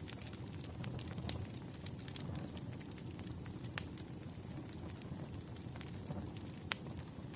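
Wood fire burning, a steady low rumble with frequent crackles and pops; the sharpest pops come about a second in, near the middle and near the end.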